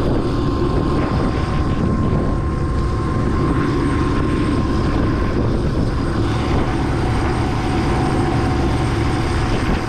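MD500C turbine helicopter running at ground idle with its controls locked: steady rotor and engine noise with a thin whine that steps down a little in pitch about six seconds in.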